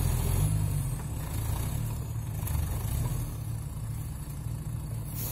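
Off-road SUV engine running, a low steady rumble that is a little louder in the first second or so and then settles toward an idle.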